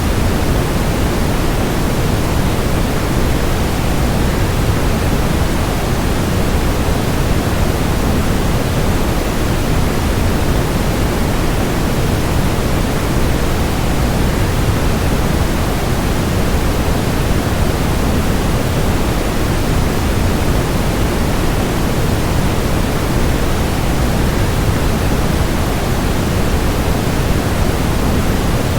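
Waterfall sound blended with white noise: a steady, unchanging rush, fullest in the low end.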